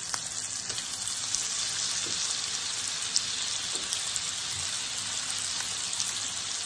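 Chicken breasts frying in hot oil and butter in a pan: a steady sizzling hiss with a few sharp crackles.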